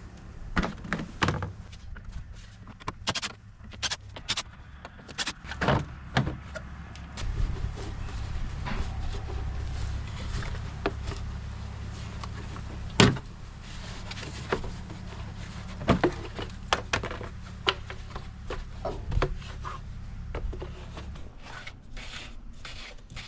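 Clicks, knocks and clunks of plastic engine-bay parts being unclipped and pulled out by hand, the air box among them, with one louder knock about halfway through. A low steady hum runs underneath.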